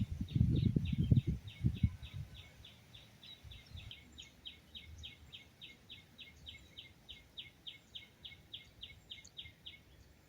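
A bird calling in a long, even series of short high notes, about four or five a second, which stops shortly before the end. Low rumbling and knocks are heard for the first two seconds.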